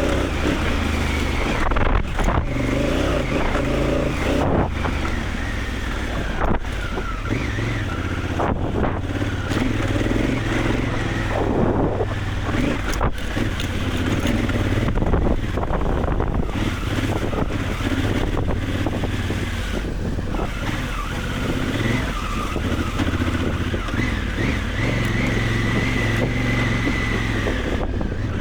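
Honda Africa Twin adventure motorcycle's engine running while riding off-road, its note rising and falling with the throttle.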